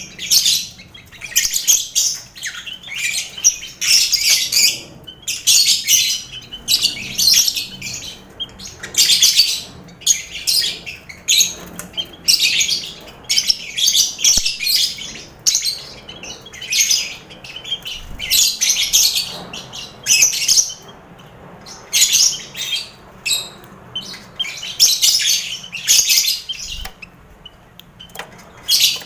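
A colony of lovebirds with finches among them, chattering and calling. Shrill bursts of calls come about once a second, overlapping one another.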